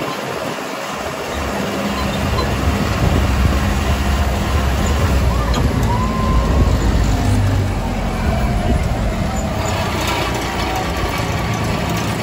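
Tram engine running with road and wind noise, heard from aboard the moving tram; the low engine hum grows louder about two seconds in.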